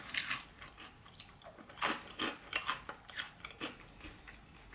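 Close-up chewing of a crunchy Flamin' Hot snack, most likely a Cheeto from the Munchies mix: irregular crisp crunches that thin out toward the end.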